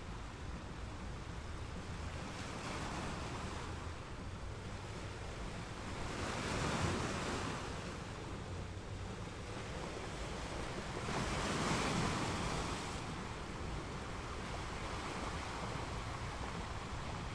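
Sea waves washing in steadily, with two louder surges about six and eleven seconds in.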